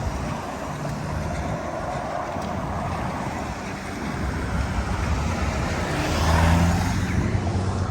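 Road traffic: a motor vehicle's engine running steadily, growing louder about six seconds in as it comes close, then easing off.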